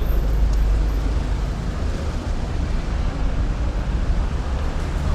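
Moderate city-street traffic: a steady low rumble of passing motor vehicles.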